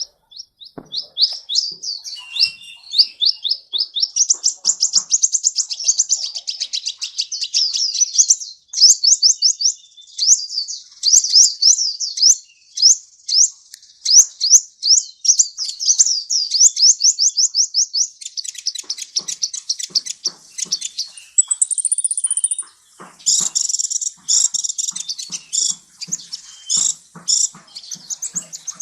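Sunbird (the 'kolibri' of Indonesian bird-keepers) singing in long, rapid trills of quick, high, sweeping notes. Near the end the song turns into a denser, busier burst.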